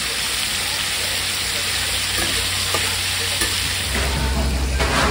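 Beef and offal with cabbage and onion sizzling on a hot iron teppan griddle, stirred and turned with a utensil. A low hum comes up under the sizzle about four seconds in.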